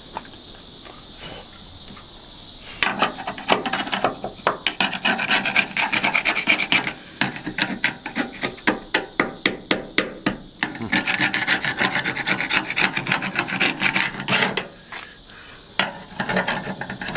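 Rapid hand scraping strokes against the truck door, about five a second, starting about three seconds in, with a brief break in the middle and easing off near the end.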